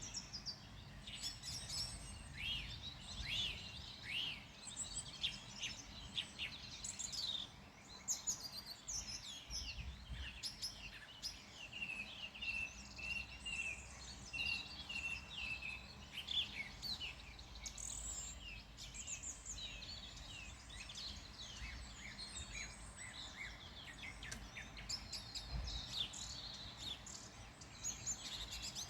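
Several wild birds singing and calling at once, a dense mix of quick chirps and trills, with one bird repeating a single note evenly for a few seconds near the middle. A low rumble of outdoor background noise runs underneath.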